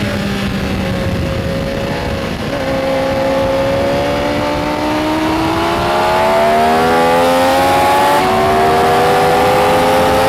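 Benelli Tornado Tre 900's inline three-cylinder engine pulling hard on a racetrack, its pitch rising steadily as it accelerates. About eight seconds in, an upshift briefly breaks the tone, and it then runs on steady over rushing wind noise.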